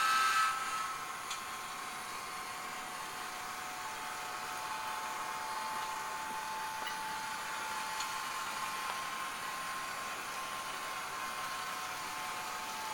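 Digitrax SDH164D sound decoder in an HO-scale Atlas SD35 model playing diesel locomotive sounds through a small speaker: the last of a grade-crossing horn sequence cuts off about half a second in, then the diesel engine sound runs steadily.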